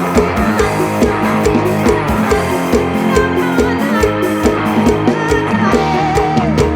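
Instrumental mor lam band music: a plucked-string melody over a steady, regular drum-kit beat, taken straight from the band's monitor mix.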